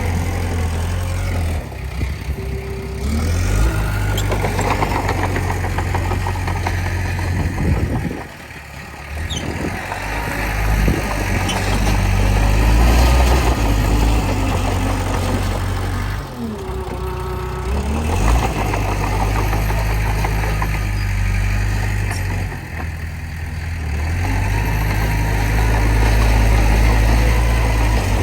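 Diesel engine of a Komatsu D20P bulldozer running under varying load, dropping briefly three times and then picking back up.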